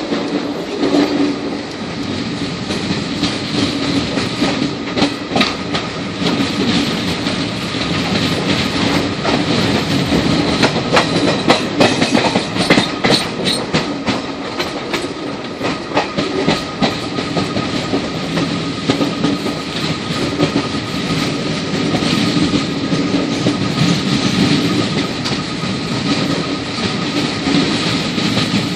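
Passenger train running along the track, heard from inside the moving coach: a steady rumble with the wheels clicking over rail joints, the clicks coming thick and fast about halfway through.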